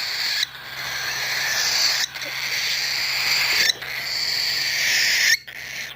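Baby cockatiel giving its raspy, hissing food-begging screech: four long calls of about a second and a half each, with short breaks between them.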